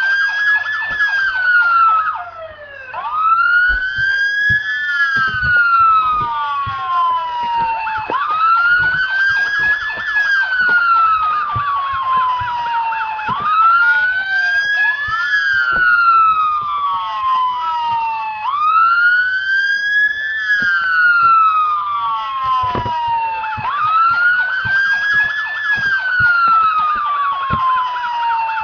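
Emergency vehicle siren sounding a wail, its pitch rising quickly and then falling slowly, repeating about every five seconds.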